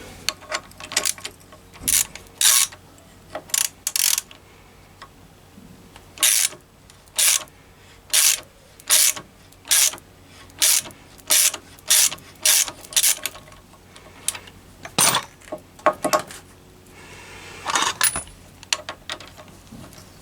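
Ratchet wrench worked in short swings, a burst of clicks on each stroke, winding in a gear puller's centre bolt. The strokes come a few at a time at first, then steadily at about one every half second or so through the middle, then a few scattered ones near the end.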